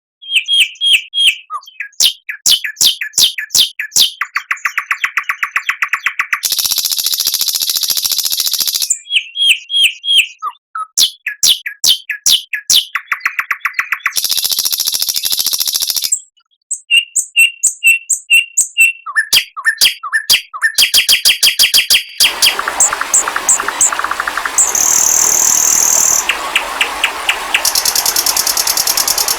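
Songbird song from a masteran bird-training recording: fast phrases of sharp chirps, clicks and repeated whistled notes, alternating with buzzy rattles and high hissing notes, with short pauses between phrases. About two-thirds of the way through, the recording changes to a denser, continuous song over a background hiss.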